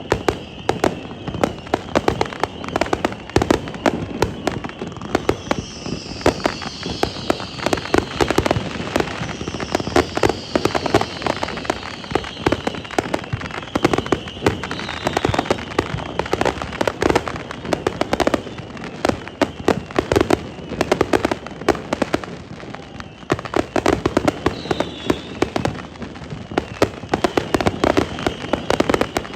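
Fireworks display going off from a barge: a dense, continuous run of crackling pops and bangs, with a few high whistles falling in pitch partway through.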